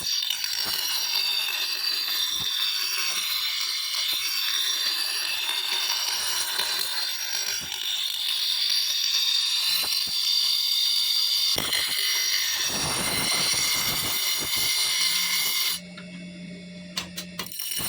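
Electric grinder working the steel of a knife blank, a continuous high, hissing grind over a low motor hum. The grinding stops about two seconds before the end, and the motor keeps humming.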